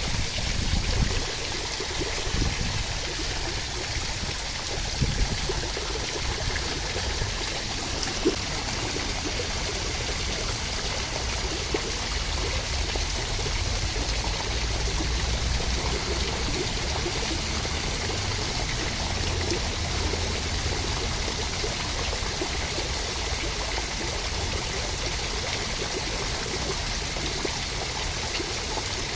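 Steady, dense rushing of water, as in a relaxation ambience of falling rain or running water, with a few soft low thumps in the first eight seconds.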